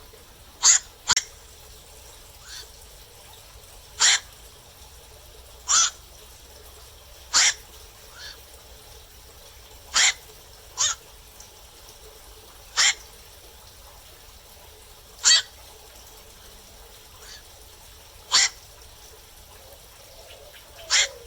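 Black-crowned night heron giving short 'kwak' calls, one every two or three seconds with a few quick pairs, about a dozen in all.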